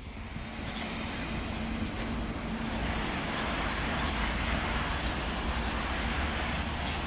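E652 electric locomotive hauling a rake of yellow RFI carriages, approaching along the tracks: a steady rushing rumble that grows louder.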